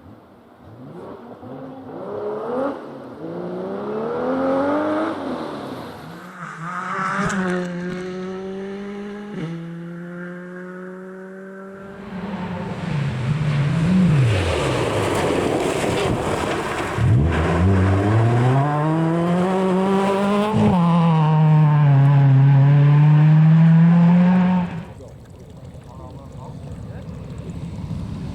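Rally car at full throttle on a forest stage, engine climbing in pitch and dropping at each of several quick gear changes. About halfway in it gets much louder, with a rushing tyre-and-gravel noise under engine revs that fall and climb again as it brakes and accelerates. The loud sound cuts off suddenly a few seconds before the end, leaving a quieter engine.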